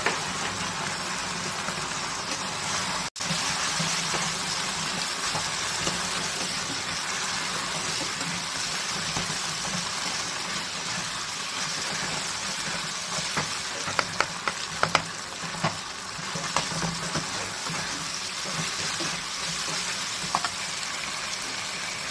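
Onions and capsicum sizzling steadily in a hot frying pan with soy and tomato sauce, stirred with a flat spatula. A run of sharp clicks comes a little past the middle as the spatula knocks against the pan.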